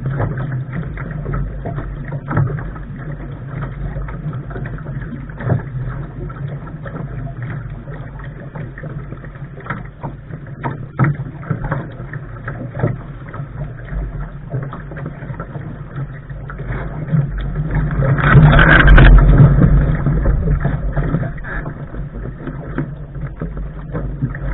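Water rushing and slapping against the hull of a Lark sailing dinghy under way, with frequent small knocks, and a louder rush of water and wind about 18 seconds in that lasts a couple of seconds.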